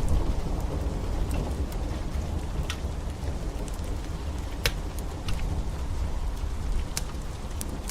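Steady rain with a low rumble beneath it, and a wood fire crackling: a few sharp, irregular pops, about five in all.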